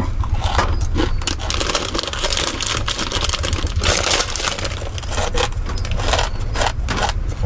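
Crunching and crackling of dry, uncooked instant noodles being eaten, with the plastic packet crinkling, as dense irregular crisp snaps. A steady low rumble runs underneath.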